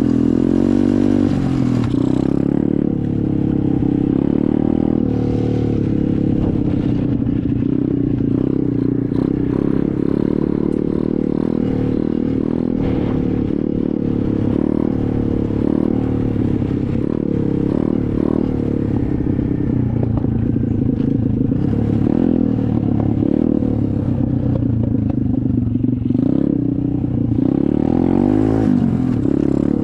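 SSR 125 dirt bike's single-cylinder four-stroke engine running while being ridden, its pitch rising and falling with the throttle, with a rev up and back down near the end.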